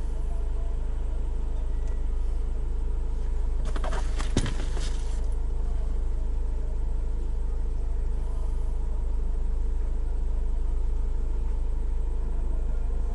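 Car engine idling with a steady low rumble. About four seconds in there is a brief rattling clatter with one sharp click.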